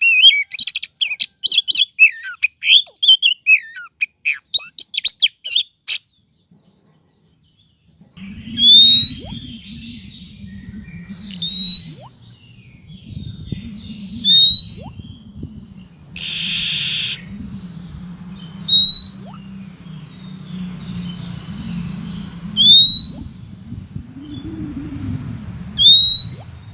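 Female oriental magpie-robin (kacer) calls of the kind played to lure males: a rapid run of chirps for about six seconds, then after a short pause a single sharp rising whistle repeated every two to four seconds over a low hum. A brief hiss cuts in about halfway through.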